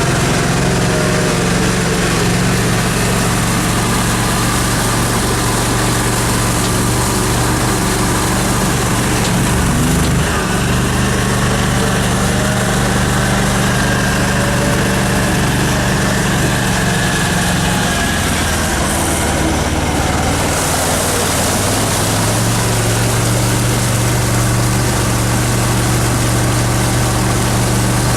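Small 3.3-horsepower Mariner outboard motor running steadily, with changes in engine speed about ten seconds in and again around twenty seconds in.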